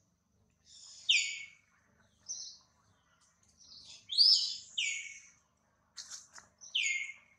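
A bird calling: short, sharp notes that slide down in pitch, repeated several times with gaps between them, the loudest about four seconds in.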